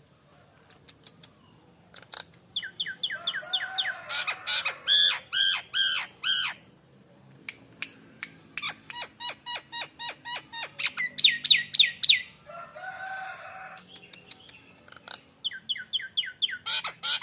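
Jalak Nias myna calling in bouts of fast, repeated, downward-curving whistled notes, with a harsher, noisier call about three-quarters of the way through and a few sharp clicks near the start. It is a lure call (pancingan) used to get other birds to sing.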